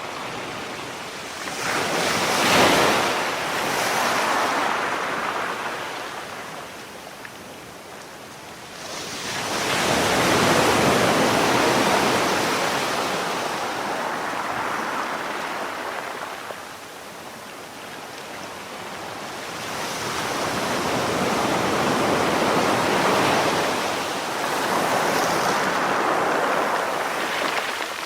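Sea waves breaking on a shore and washing back, in three slow surges that swell and fade: about 1.5 s in, about 9 s in, and a longer one from about 20 s that lasts almost to the end.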